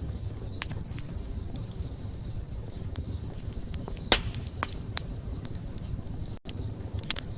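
Wood campfire burning with a low steady rumble and sharp crackling pops, the loudest about four seconds in. The sound cuts out for a split second a little after six seconds.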